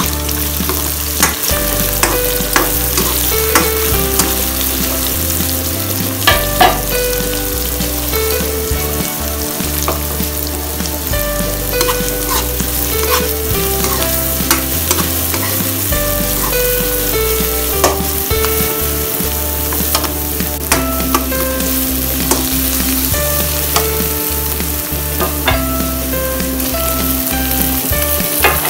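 Onions and minced garlic sizzling in hot oil in a pan, stirred with a spatula that scrapes and knocks against the pan now and then.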